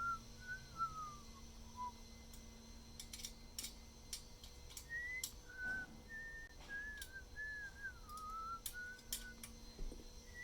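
A person whistling a wandering tune in short phrases that slide up and down, pausing for a few seconds about two seconds in, with scattered sharp clicks and taps around it.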